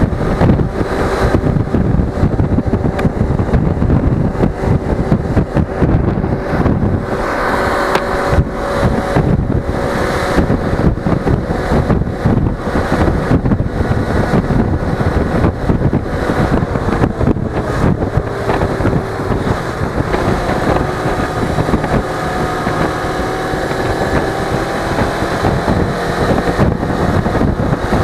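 Suzuki V-Strom 250 parallel-twin motorcycle engine running under way, its note drifting up and down as speed changes, under heavy wind buffeting on an action-camera microphone.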